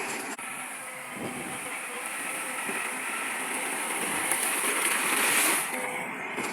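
Heavy earthmoving machinery running: a steady, noisy machine sound with a strong hiss, growing louder about five seconds in and then easing off.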